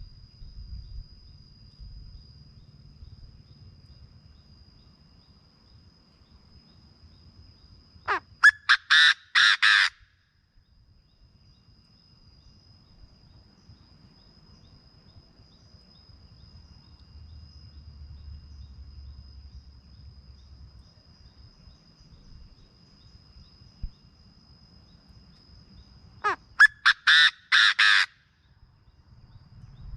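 Chinese francolin calling twice, about 18 seconds apart. Each call is a quick series of five or six loud, harsh notes lasting about two seconds. A steady high-pitched insect trill runs in the background between the calls.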